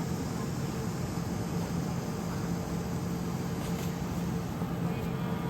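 A steady motor running with a low, even hum under a constant rushing noise, with no change in pitch or level.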